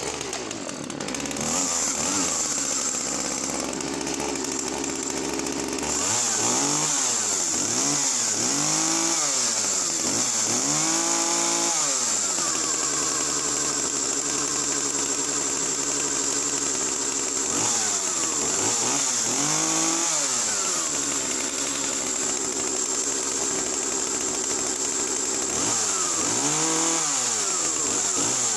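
Two-stroke chainsaw running continuously, its engine note rising and falling again and again as the throttle is opened and the revs drop back.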